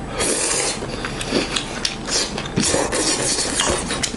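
Close-up crunchy chewing of food: a run of short, irregular rasping crunches.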